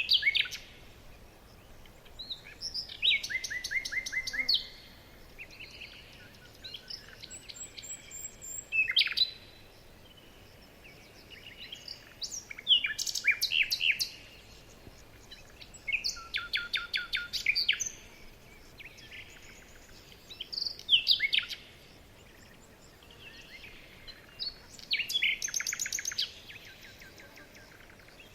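Songbirds singing: short phrases of rapid, high trilled notes, repeated every three to four seconds, over a faint outdoor hiss.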